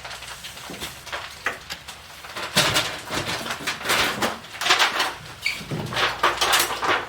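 Kitchen handling sounds: containers and cupboard doors knocking and rattling as herbs and spices are fetched and used, quiet at first and turning into a busy run of irregular knocks and rattles about two and a half seconds in.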